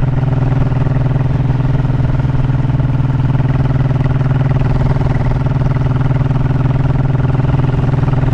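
Honda motorcycle engine running at a steady speed, an even hum that holds one pitch throughout.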